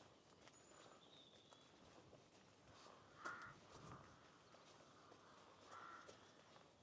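Faint outdoor birdsong: a few thin, high notes near the start, then two short, lower calls, the first about three seconds in and the louder of the two, the second near the end.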